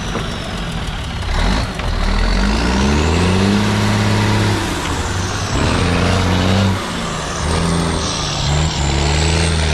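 Heavy trial truck's engine revving hard in several bursts, each climbing in pitch and held before dropping back. A high whine glides up and down above it.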